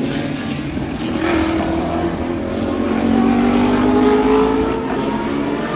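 Several IMSA GTP-era prototype race cars passing at racing speed, their engine notes overlapping and sliding up and down. The sound swells to its loudest about four seconds in.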